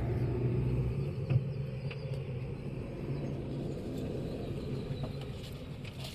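Diesel car driving, heard from inside: a steady low engine hum with road rumble and a single knock about a second in.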